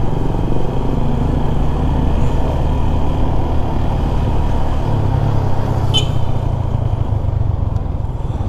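Yamaha Sniper 150i's single-cylinder engine running steadily as the motorcycle is ridden along. The engine note rises a little about five seconds in, and a short high chirp sounds about a second later.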